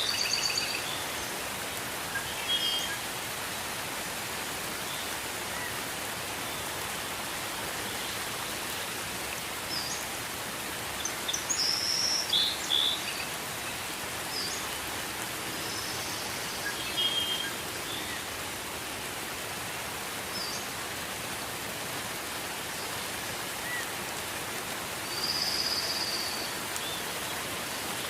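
Gentle rain falling steadily as an even hiss, with short bird chirps breaking through now and then, the loudest clusters about a third of the way in and near the end.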